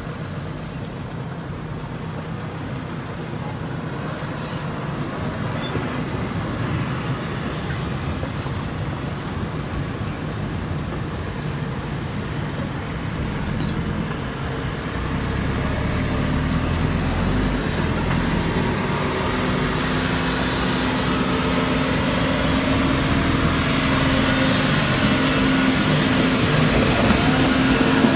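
Truck engine running steadily, gradually growing louder, with a steady engine hum coming up in the second half.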